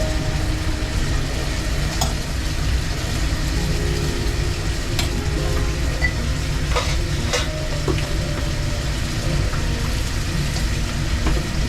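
Food frying in a food-truck kitchen: a steady hiss over a constant low rumble, with a few short clicks of utensils, about four in all.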